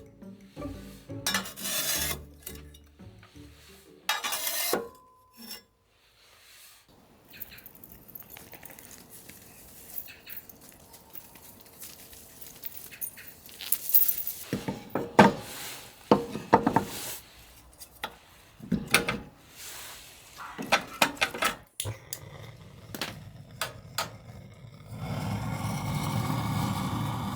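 Dishes, pans and cutlery clattering and clinking in scattered sharp knocks, with background music in places.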